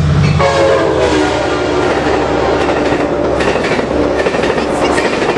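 Amtrak Pacific Surfliner train passing close at speed, its wheels rumbling and clattering over the rails in a loud, steady rush. The last of its horn dies away, slightly falling, in the first second.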